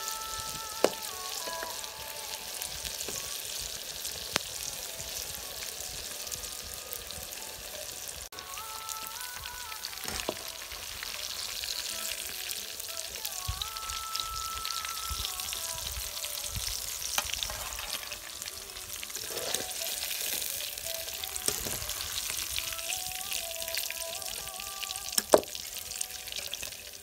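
Onion pakoras deep-frying in hot oil: a steady sizzle, with now and then a sharp click of a metal spoon or wire skimmer against the pan, the loudest near the end.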